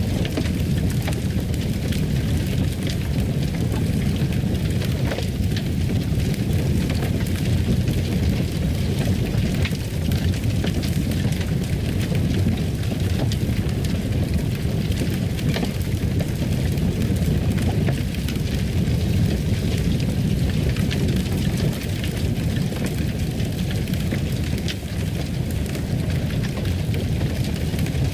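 Wood fire crackling in a fireplace: a steady low rumble of flames with many small irregular pops and snaps throughout.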